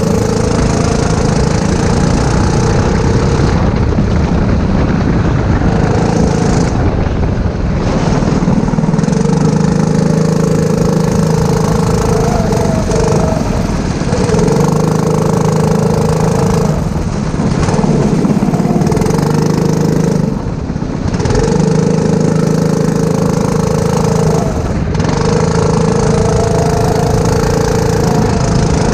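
Four-stroke go-kart engine running hard at steady high revs, dropping briefly every few seconds as the throttle is lifted for corners and then picking up again.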